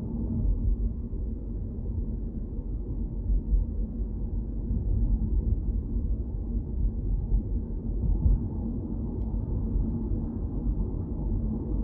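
Steady low rumble of a car on the move, road and engine noise with a faint steady hum.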